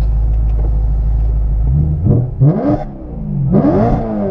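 Car engine running with a steady low drone, then revved twice, about two and three and a half seconds in, the pitch climbing and falling back each time.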